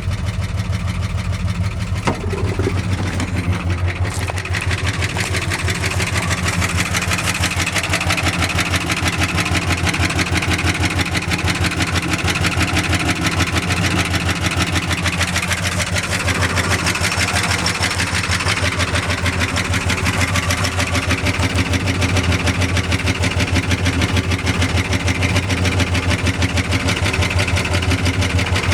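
1976 Ford F-250's 390 FE V8 running steadily through new headers and exhaust, with an even, continuous pulse. The engine is worn: it smokes and two cylinders are low on compression.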